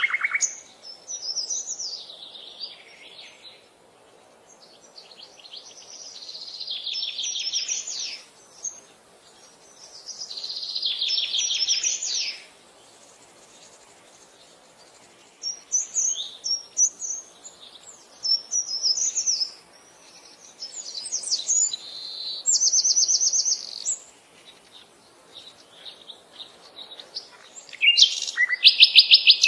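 Songbirds singing: several fast trills of rapidly repeated high notes, with shorter chirps and calls between them and a brief lull about halfway through.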